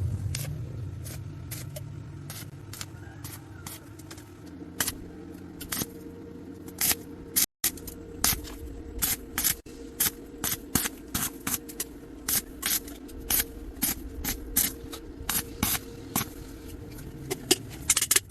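A run of short, sharp clicks and taps at irregular spacing, growing more frequent toward the end, over a steady low hum.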